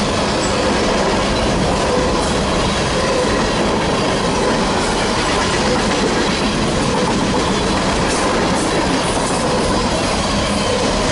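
A long freight train's cars rolling steadily past at speed, steel wheels rumbling and clacking over the rail joints, with a thin steady wheel squeal.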